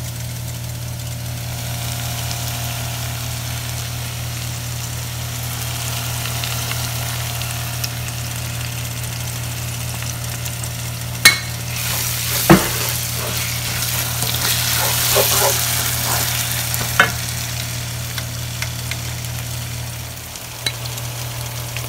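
Chopped onions with garlic and ginger sizzling in a nonstick frying pan as cooking oil is poured in, the sizzle growing brighter past the middle. A few sharp clicks sound about halfway through, over a steady low hum.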